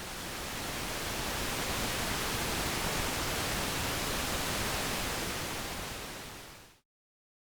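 A steady, even hiss of noise across all pitches that swells in, holds, and fades out smoothly, dropping to complete silence near the end.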